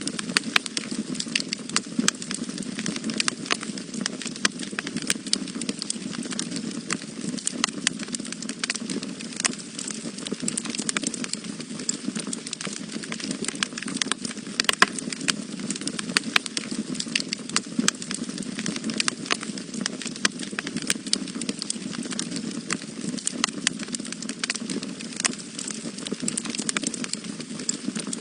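Wood fire burning in a fireplace: dense, irregular crackles and pops over a steady low rushing sound of the flames.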